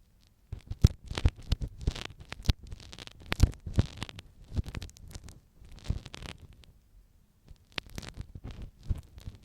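Ear pick scraping and scratching in the ear of an ASMR microphone, very close up: a run of irregular short scratches and taps, with a brief pause about seven seconds in.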